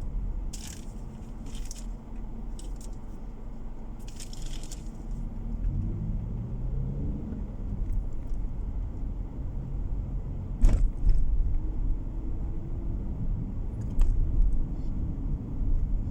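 Car driving, heard inside the cabin: steady low engine and road rumble, with the engine note rising as the car speeds up about six seconds in. A few short rattles come early on, and there are two sharp knocks later.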